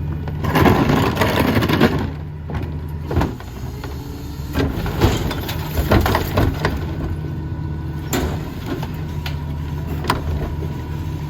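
Mack MRU rear-loader garbage truck's diesel engine running steadily at idle. In the first two seconds there is a loud surge of rushing noise, and after it come scattered knocks and clatter.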